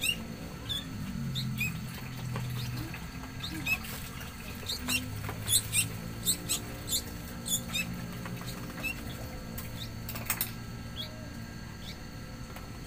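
Small birds giving many short, high-pitched chirps and squeaks at irregular intervals, in a scene with a tame sooty-headed bulbul and young birds it tries to feed, over a faint low hum.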